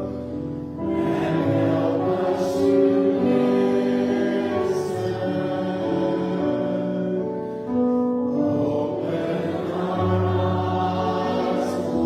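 Voices singing a hymn together, in slow phrases of held notes that change about once a second.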